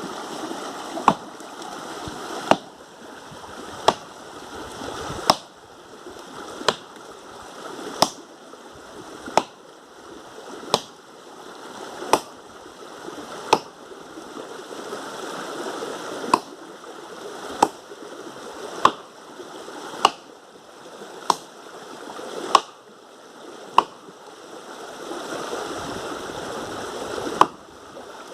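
Axe chopping wood: about eighteen sharp blows at a steady rhythm of one every second and a third, with two brief pauses, over a steady hiss.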